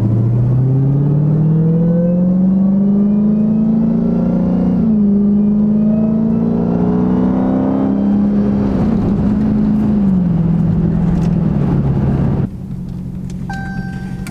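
Dodge Charger Hellcat's supercharged V8 accelerating, its pitch climbing and dropping back at upshifts about five and about nine seconds in, then settling lower as it eases off. The sound drops suddenly near the end.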